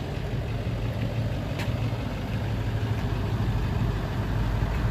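Chevrolet Silverado pickup engine running steadily with a low hum, and a light click about one and a half seconds in.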